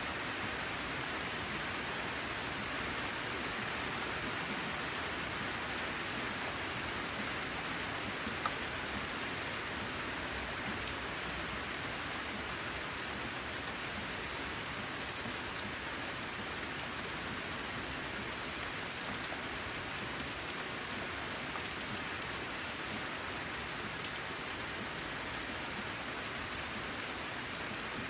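Steady rain falling on a corrugated zinc roof, with a few louder single drops ticking now and then.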